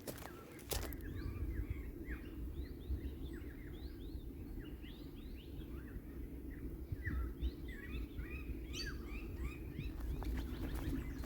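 Many small birds chirping and calling in quick, overlapping short notes, over a steady low outdoor rumble.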